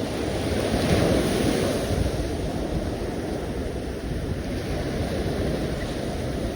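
Sea surf: a steady rush of waves that swells about a second in and then settles, with wind buffeting the microphone.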